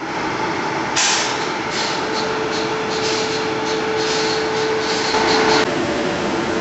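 A stationary electric locomotive and train standing at a platform, with a steady machinery hum. From about a second in there is hissing air in irregular spurts over a held mid tone. Both stop suddenly near the end, leaving the steady hum.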